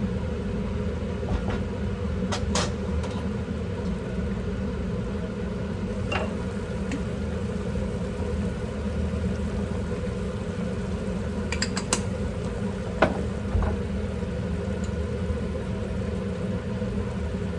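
Steady motor hum of a kitchen appliance, with a few light clinks and taps of dishes or utensils.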